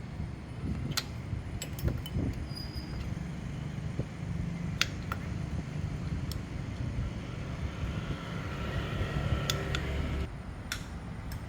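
Workbench sounds: scattered sharp clicks and taps over a steady low hum. About two-thirds of the way in, a higher mechanical whine comes in for a couple of seconds, then cuts off suddenly.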